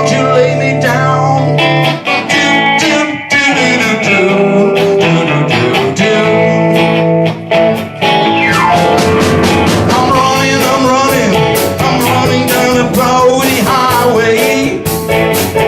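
Live band playing a blues-rock song: guitars and drums with a singing voice.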